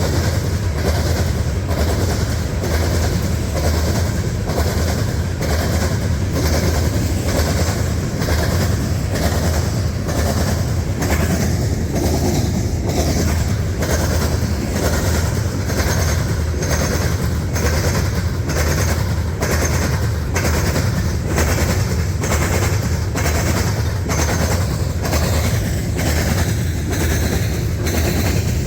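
A train's cars rolling past close by, with a steady rhythm of wheel clicks over the rail joints.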